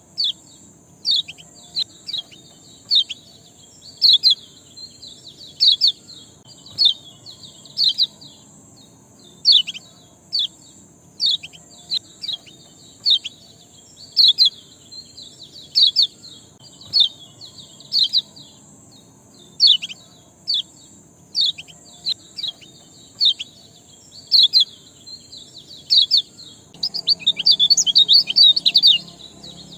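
A bird chirping over and over in short, sharp, downward-sweeping chirps, about one or two a second, breaking into a rapid flurry of chirps near the end. A steady high hiss runs underneath.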